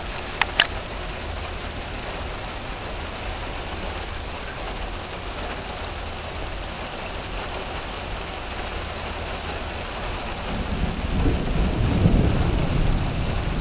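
Steady heavy rain, with two sharp clicks about half a second in. Thunder rumbles, growing louder over the last few seconds.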